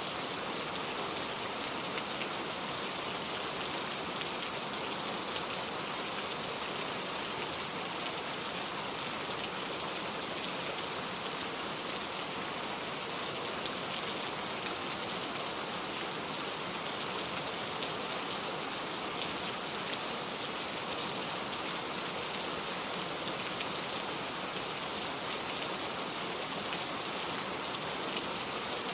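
Steady rain falling, an even hiss with fine scattered drop ticks, unchanging throughout.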